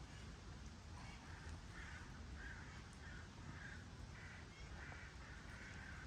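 A bird calling over and over, about two short calls a second, starting about a second in, over the steady hiss of rain.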